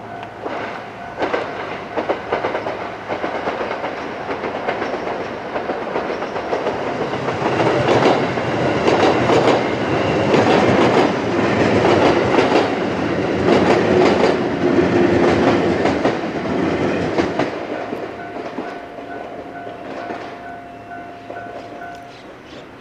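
JR West 221 series six-car electric train passing over a level crossing, its wheels clacking over the rail joints. It grows louder to a peak about halfway through, then fades as it goes away. The crossing's warning bell rings as a steady tone, heard again as the train fades, and stops shortly before the end.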